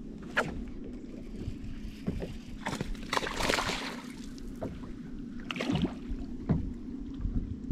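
Fishing boat sitting on the water: a steady low hum under small knocks and splashes against the hull, with a louder splashing rush about three seconds in.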